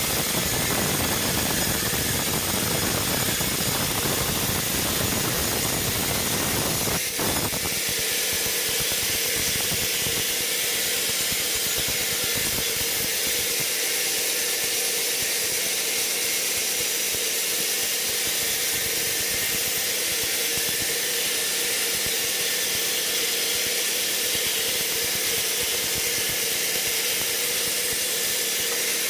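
Sawmill machinery running with a steady hiss and a high whine. A low rumble under it stops after a knock about seven seconds in.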